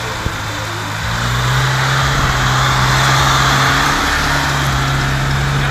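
Lada Niva's engine running hard as the car pushes through deep snow, with a loud rushing hiss that swells in the middle. The engine's pitch steps up about four seconds in.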